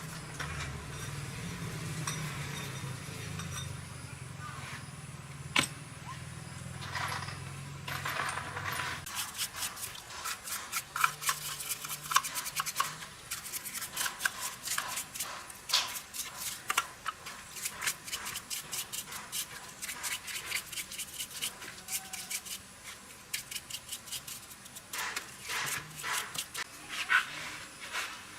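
Many light metallic clinks and taps of small parts and hand tools being handled. A low steady hum runs under them for about the first nine seconds, then stops.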